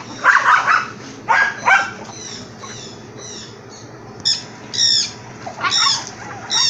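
A bird calling over and over in short, high, falling notes, loudest in the second half. Two louder, lower cries come in the first two seconds.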